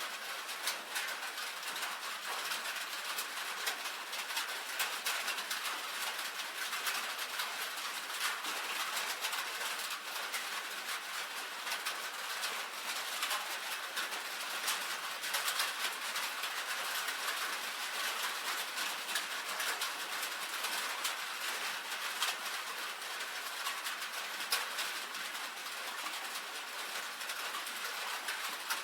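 Steady rain on a tin roof: a dense, even patter with many sharp individual drop taps.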